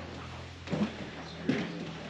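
Footsteps or knocks on wooden boards, about one every three-quarters of a second, over a steady low hum.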